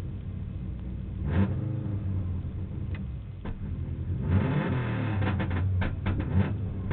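Subaru rally car's flat-four engine running at a standstill and being revved, heard from inside the cabin. There is one sharp crack about a second and a half in. From about four seconds in, the revs rise and come with a run of sharp cracks and pops.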